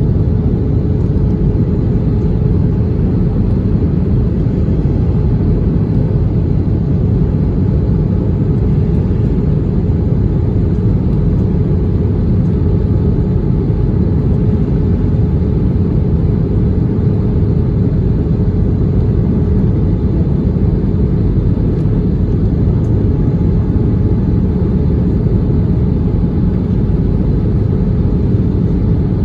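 Steady cabin noise inside an Airbus A320 in flight: a constant low rumble of engines and airflow, with a faint steady hum above it.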